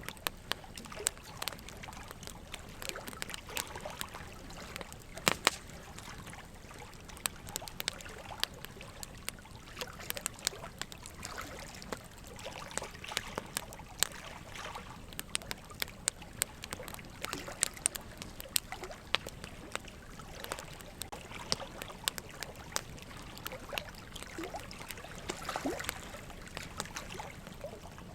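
Campfire of burning wood crackling, with irregular sharp pops over a soft steady hiss; the loudest pops come about five seconds in.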